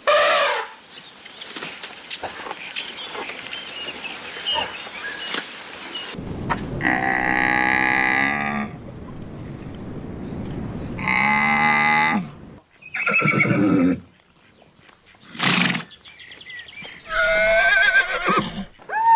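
Farm animals calling: a series of loud, pitched calls, the longest lasting about two seconds starting about six seconds in, and the last ones wavering in pitch.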